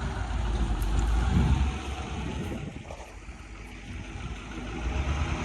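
Low rumble of a machine's engine running, mixed with wind buffeting the microphone; it eases off around the middle and builds again near the end.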